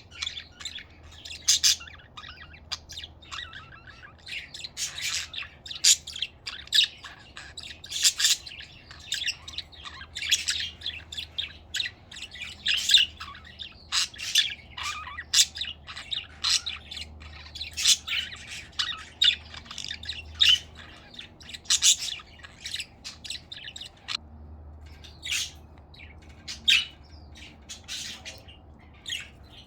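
Budgerigars chirping and chattering in a continuous string of short, high-pitched calls and squawks, sparser near the end.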